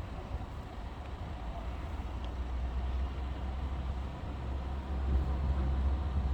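Low, steady rumble of road vehicles idling and moving near the level crossing, swelling slightly about four seconds in.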